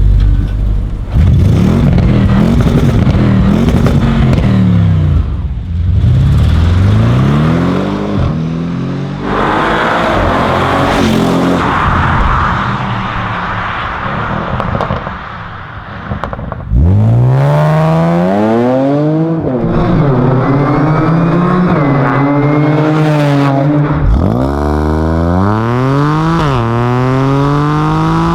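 Audi performance car's engine heard from inside the car under hard acceleration. The pitch climbs steadily and then drops sharply at each upshift, several times over. Through a stretch in the middle the engine note sinks lower and wind and road noise take over.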